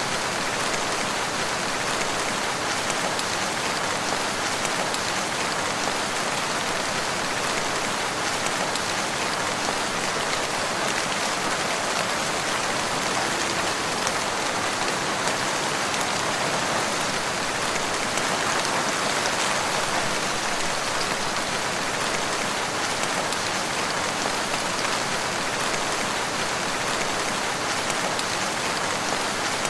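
Steady rain falling and pattering on surfaces, a dense, even hiss with no thunder or pauses.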